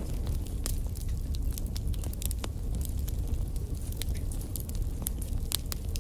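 Wood fire burning in a fireplace: a steady low roar of flame with irregular sharp crackles and pops from the logs, one of the loudest about five and a half seconds in.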